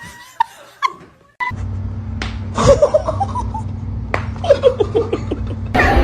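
A person laughing in two short runs of quick 'ha-ha' pulses that fall in pitch, over a steady low hum that cuts in abruptly about a second and a half in.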